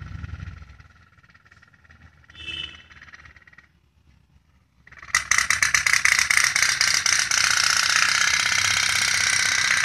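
Tin pop-pop (putt-putt) toy boat running: its heated boiler gives a fast, continuous putt-putt rattle. It starts loudly about five seconds in after a quiet stretch and then keeps an even rhythm.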